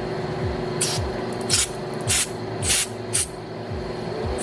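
Five short blasts of compressed air from a blow gun, each a brief high hiss, about half a second to a second apart, blowing a part clean. A steady hum runs underneath.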